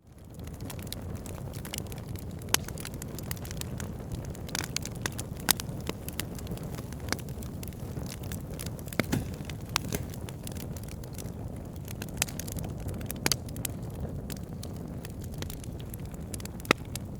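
Wood fire of burning logs: a steady low rush of flame with frequent sharp crackles and pops scattered irregularly throughout, rising in from silence at the very start.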